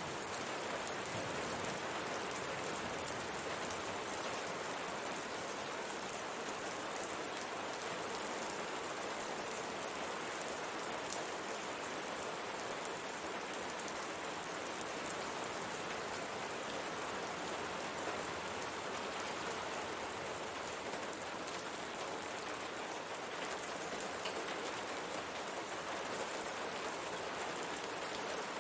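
Steady rain pattering on a window pane, an even hiss with fine scattered drop ticks.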